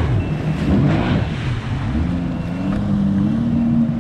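Watercraft engine running over wind and water noise; its pitch rises a little about halfway through, then holds steady.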